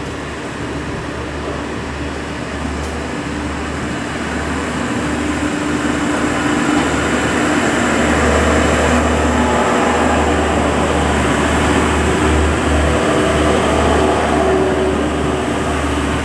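Red regional multiple-unit train pulling out of the station, its running noise and low hum growing louder over the first half as it moves off below.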